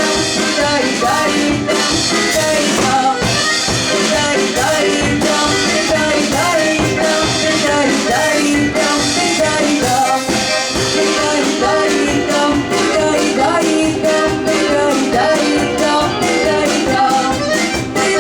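Lively ensemble music with a steady, fast beat and a melody line, from a folk ensemble's performance.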